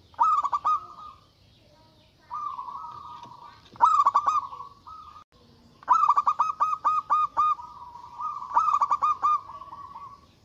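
Zebra dove (perkutut) cooing: four bouts of rapid staccato notes, each trailing into a softer drawn-out coo.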